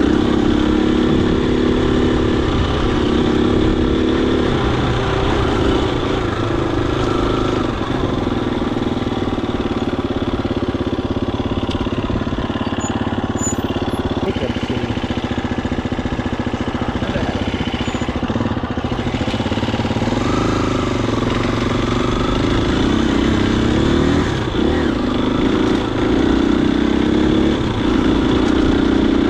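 Husqvarna FE250's single-cylinder four-stroke engine running as the dirt bike is ridden, its pitch rising and falling with the throttle.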